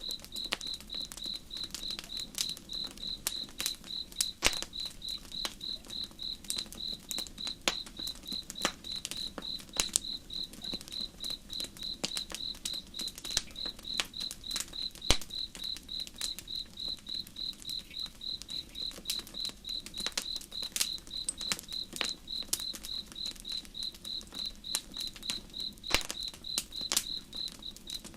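A cricket chirping steadily, about three evenly spaced chirps a second, over the irregular crackling and popping of a campfire, with a soft low rush underneath.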